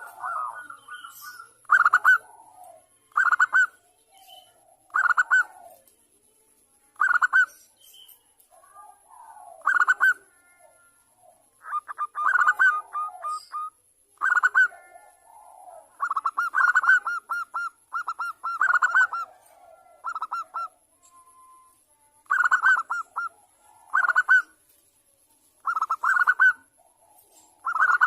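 Zebra dove (perkutut) song: short, rapid, trilled coo phrases repeated every one to two seconds.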